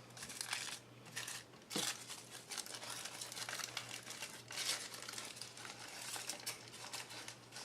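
Crumpled paper crinkling and rustling in faint, irregular bursts as it is handled and pressed down onto a tag wet with Mod Podge.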